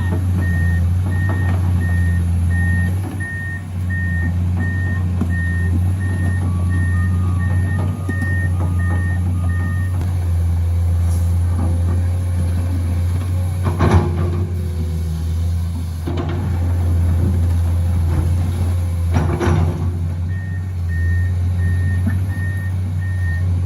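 Heavy diesel truck engines running steadily under a reversing alarm that beeps about one and a half times a second. The alarm stops for about ten seconds in the middle, then starts again near the end. A second, lower-pitched alarm beeps along with it for a few seconds, and there are two short hisses about five seconds apart.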